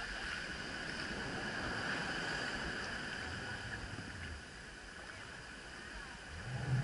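Small boat's engine running steadily at low speed, with sea wash around the hull; a low rumble swells briefly near the end.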